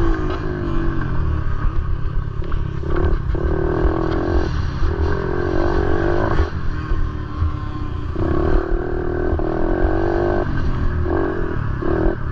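Motorcycle engines running with a heavy low rumble. A steadier engine hum rises and falls away several times, in stretches of a second or two.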